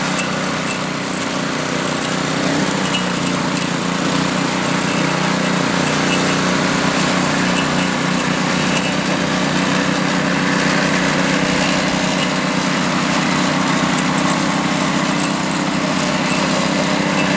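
Power trowel's small petrol engine running steadily as its rotating blades smooth the fresh concrete.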